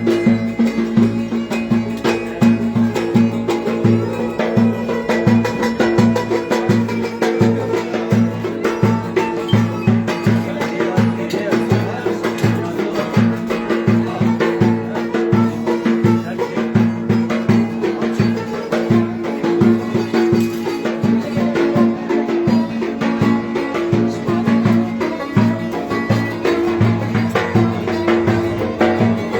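Live Turkish folk dance music (oyun havası) with a steady drum beat under a sustained melody line.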